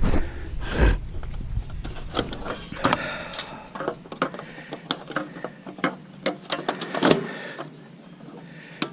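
Camera being repositioned by hand: a run of irregular clicks, taps and rubbing on the mount, with a louder knock about seven seconds in.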